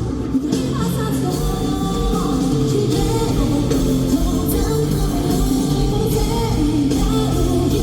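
Live J-rock band performance: distorted electric guitars and drum kit with singing, heard through an arena audience recording. The drums come in fully about a second and a half in.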